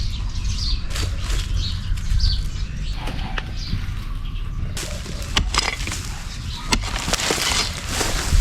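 Small birds chirping over a low steady rumble, then a run of sharp clicks, knocks and rustling from handling things, starting a little past halfway.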